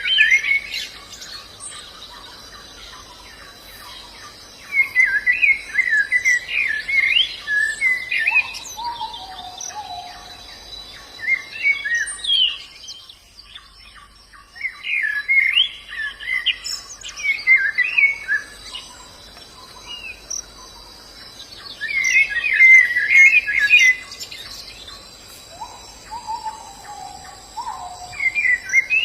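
White-eye (pleci) singing: quick, high twittering phrases in bursts of one to four seconds, about five times with short pauses between. A lower, falling note comes twice.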